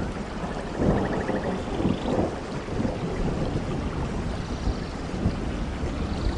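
Steady rain with low, rolling thunder rumbling beneath it.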